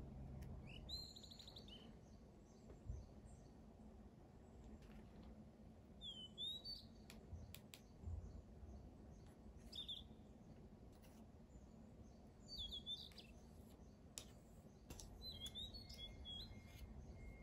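Quiet room tone with faint small-bird chirps, short high twittering calls every few seconds, and a few light clicks and a soft thump.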